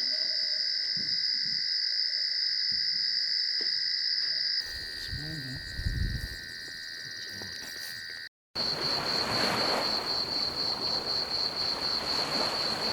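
Insects calling in a steady high-pitched chorus. After a short break about two-thirds of the way in, a sharp pulsed call repeats about three or four times a second over a steady hiss.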